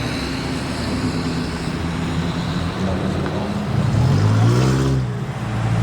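Car engine running steadily, then revved up about four seconds in and let fall back.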